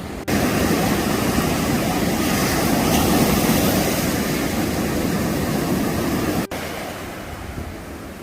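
Sea waves breaking on the beach, a continuous rush of surf. It is loud for the first six seconds or so, then drops suddenly to a quieter rush.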